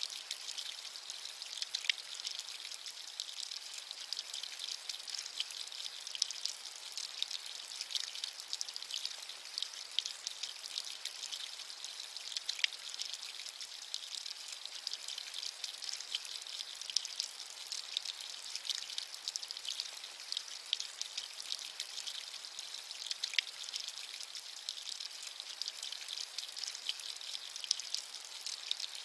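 Steady light rain: a dense patter of fine drops, with a sharper single drop now and then.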